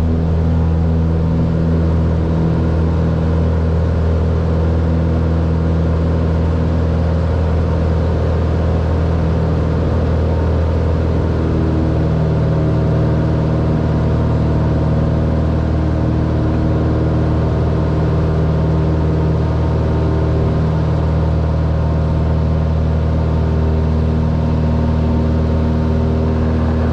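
Cessna 182R's six-cylinder piston engine and propeller running steadily, with its pitch rising slightly about eleven seconds in.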